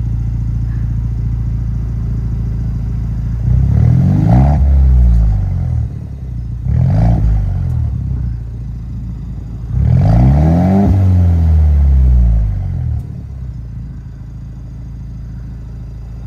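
2021 Ford Bronco engine running with its muffler removed, so the exhaust is open. It idles at first, then is revved three times, the pitch rising and falling each time, with the longest rev in the second half before it settles back to idle.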